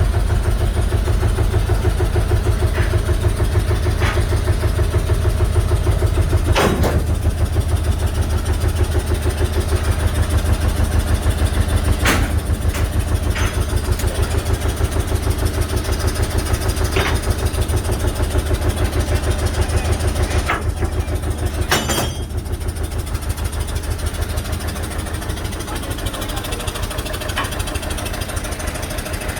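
Large engine idling with a steady low throb, broken by a few sharp metallic clanks.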